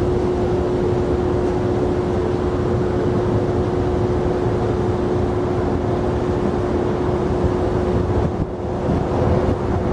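Jet airliner engine noise: a steady rumble with a constant hum, holding an even level without a clear rise or fall.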